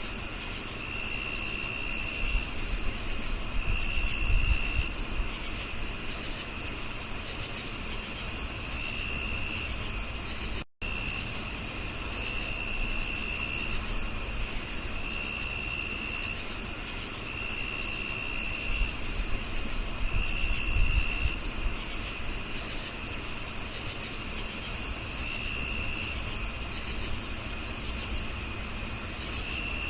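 Crickets chirping in chorus: one chirps in a steady pulse about twice a second over a continuous high insect drone, while a lower trill comes and goes in bursts of a second or two. The sound drops out for an instant about eleven seconds in, and there are two brief low rumbles.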